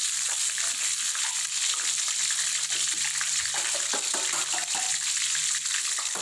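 Shallots, lemongrass and spices sizzling in hot oil in a wok: a steady frying hiss with small crackles and pops. A faint low hum runs underneath.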